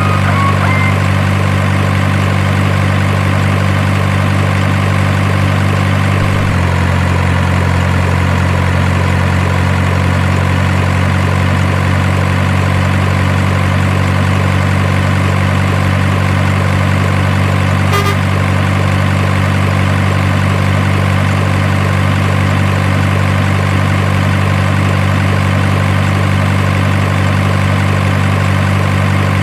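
Idling truck engine sound, very steady and even, with a slight shift in its pitch about six seconds in and one brief click near the end of the second third.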